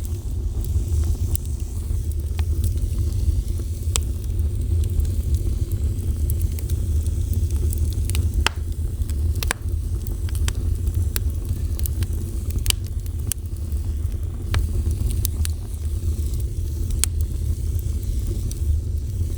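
Fire burning with a steady low rumble and scattered sharp crackles and pops at irregular intervals.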